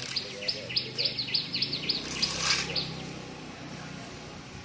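Birds chirping: a rapid run of short, falling chirps, several a second, that stops about three seconds in. A brief rush of noise comes midway.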